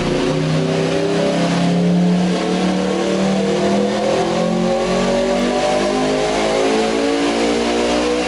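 A vehicle engine running and revving, its pitch stepping up and down at a steady loudness.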